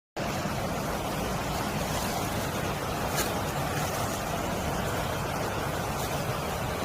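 Water in a mountain valley stream rushing steadily. One faint click comes about three seconds in.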